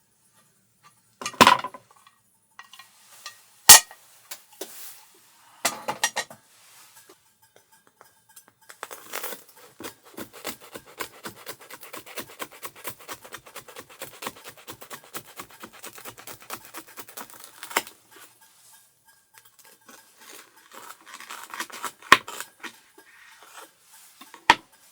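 Cooking utensils and dishes being handled: a few separate sharp clinks and knocks, and in the middle about nine seconds of quick, even strokes of a utensil in a dish, like stirring or whisking.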